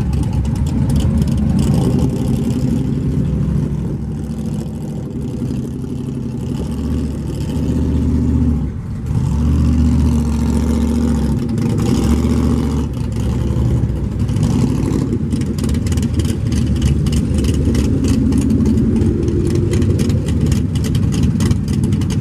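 Muscle car engines running, a deep steady exhaust rumble.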